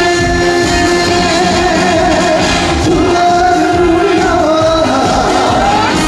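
Live concert music through a PA: a male singer holds long, wavering notes over a loud band backing, sliding up in pitch near the end.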